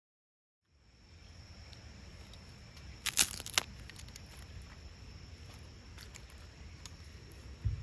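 Sharp clicks, a tight cluster about three seconds in and a few fainter ones later, over a steady low outdoor rumble and a faint steady high tone.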